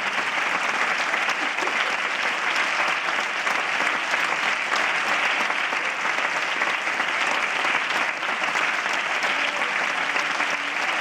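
Theatre audience applauding steadily, a dense sustained clapping after the song has ended.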